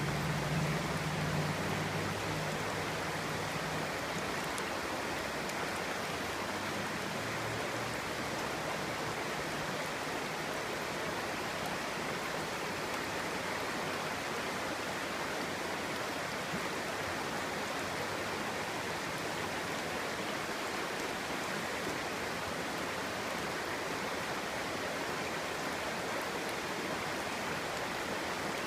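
Clear stream flowing, a steady, even rush of water. A low hum underneath fades away over the first few seconds.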